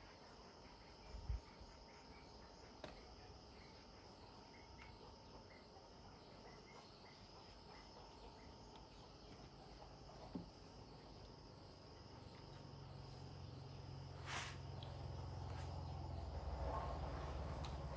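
Insects chirping steadily, with a few faint clicks. About two-thirds of the way through, a low engine rumble comes in and grows louder.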